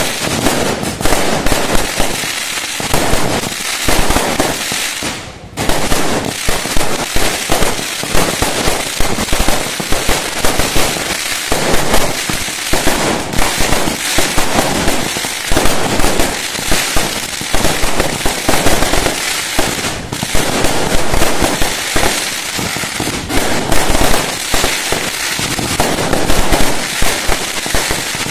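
Fireworks going off in a dense, continuous barrage of bangs and crackling, with a brief lull about five seconds in.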